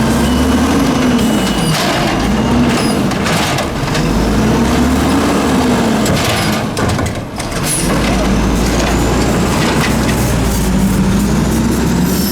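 Mack LE garbage truck engine revving up and down over and over as it drives the hydraulics of its Amrep automated side-loader arm through pick-up cycles. Several sharp clanks sound among the revs.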